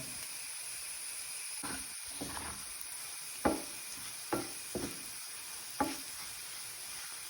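Shallots and curry leaves with turmeric and coriander powder frying in oil in a pan over low flame, giving a steady soft sizzle. A spoon knocks and scrapes against the pan several times as the mixture is stirred.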